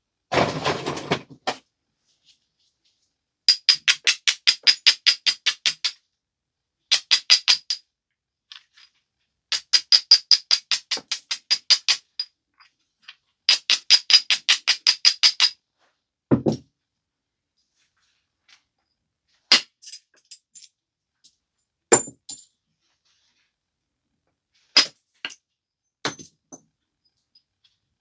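Stone biface being worked by a flintknapper: a brief clatter, then runs of rapid, evenly spaced scraping strokes, about four a second, followed by single sharp clicks a few seconds apart.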